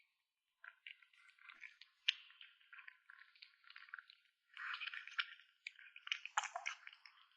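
A kitten eating meat: wet chewing and squishing with small irregular clicks, in bouts that stop and start.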